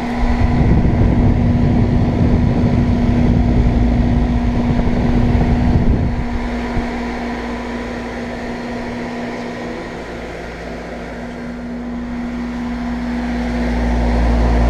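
Outdoor central air conditioner condensing unit running: a steady electrical hum under fan and compressor noise. A low rumble is heavy for the first six seconds, eases off, and builds again near the end.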